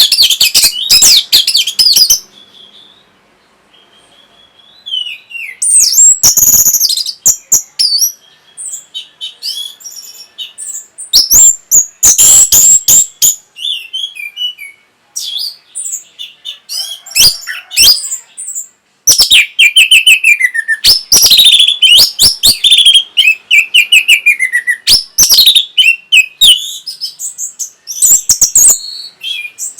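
Orange-headed thrush singing: loud, varied phrases of rapid whistled and chattering notes with sliding, falling slurs, broken by short pauses.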